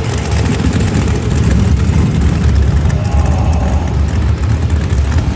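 A show car's engine running loud and steady, a low rumble with no breaks.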